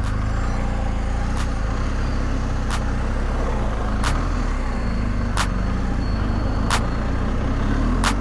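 BMW R1250 GS boxer-twin engine running steadily at low revs, with a sharp tick repeating evenly about every second and a third.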